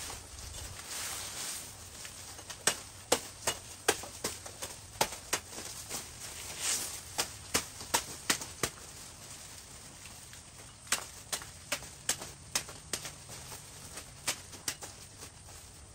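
A series of sharp knocks, irregular at about two to three a second, in three runs with short pauses between them.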